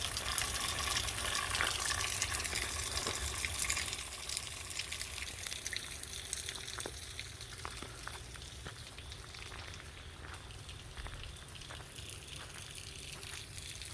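Spring-fed stream running over rocks in small rapids, a steady rushing splash that turns fainter about four seconds in. A few faint clicks come in the second half.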